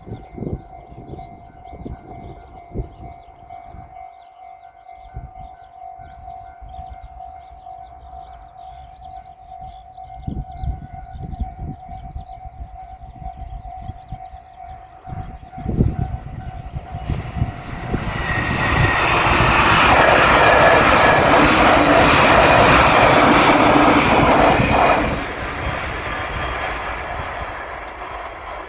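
Japanese level-crossing warning bell ringing steadily, then a JR Shikoku 8000-series electric limited-express train passes over the crossing at speed: its running noise builds, stays loud for about six seconds, then falls away sharply.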